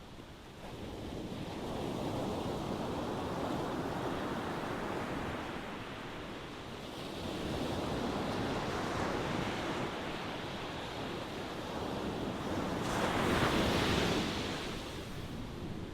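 Ocean waves surging in and washing back in slow swells. The last wave, about thirteen seconds in, breaks loudest with a brighter crash.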